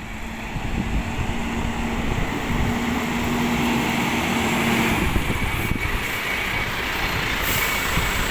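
FOGO rubbish truck's engine running steadily, with a low whine for the first five seconds.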